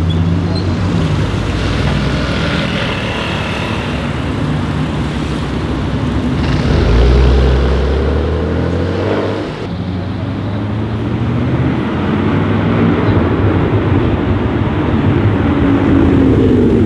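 Performance cars accelerating on a street: a Bugatti Chiron's quad-turbo W16 pulling away, then a BMW M4's twin-turbo straight-six revving up with a deep rumble about seven seconds in. Near the end, another Bugatti Chiron drives past with its engine note rising as it nears.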